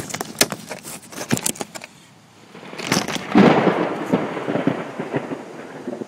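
Thunder: a run of sharp clicks and taps, then about two and a half seconds in a loud crack of thunder that rumbles and fades over a few seconds.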